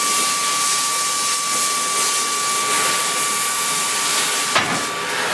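Oxy-LPG cutting torch cutting through 32 mm steel plate: a steady hiss of the flame and oxygen jet with a thin whistling tone through it, and one sharp click about four and a half seconds in.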